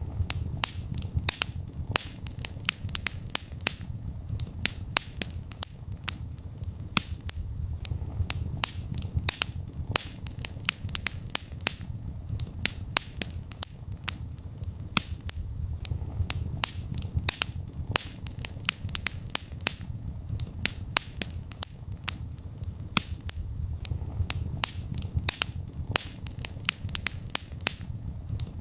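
Wood fire crackling in a fireplace: frequent sharp, irregular pops and snaps over the low, steady sound of the burning flames.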